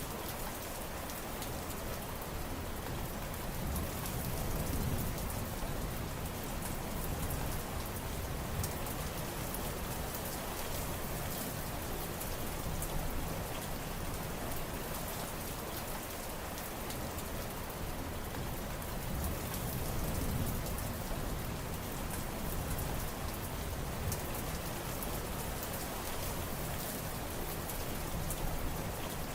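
Steady heavy rain falling and pattering on surfaces, with a low rumble swelling up twice, about five seconds in and again about twenty seconds in.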